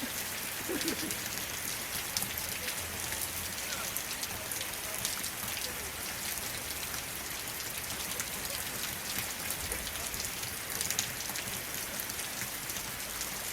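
Steady rain falling: a constant hiss speckled with the ticks of individual drops.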